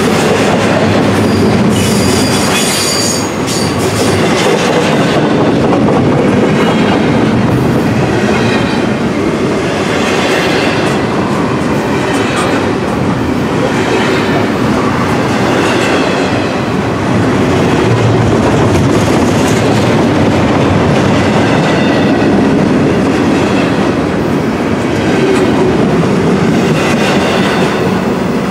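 Double-stack intermodal freight train's well cars rolling past close by, a steady rumble with the wheels clicking over the rail joints, and a brief high wheel squeal about two to three seconds in.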